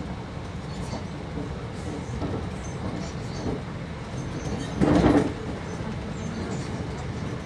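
TER regional train running along the line, a steady low rumble, with one short louder knock about five seconds in.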